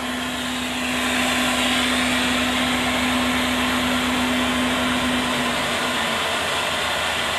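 Steady mechanical running noise of a train in motion, with a low pulsing rumble and a steady low hum that fades out about six seconds in.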